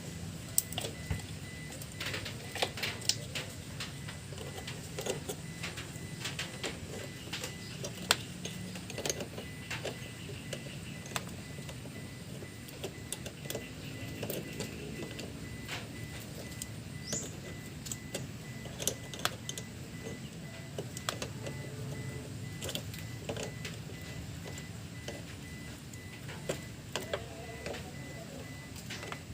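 Irregular clicks and knocks of hands-on work, scattered every second or so, over a steady low hum.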